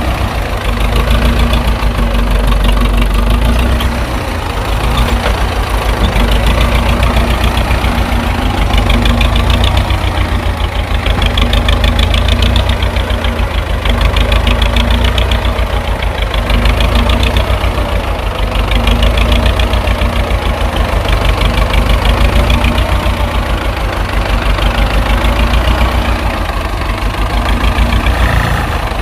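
Steady, rhythmic engine chugging with a strong low rumble, like an idling tractor engine, running evenly without a break.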